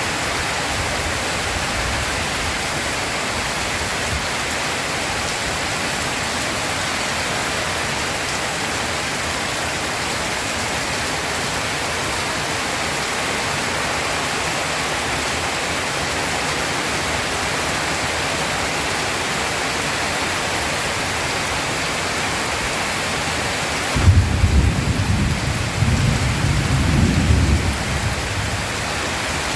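Heavy rain falling with a steady hiss. Near the end, thunder breaks in suddenly with a deep rumble that rolls for about four seconds.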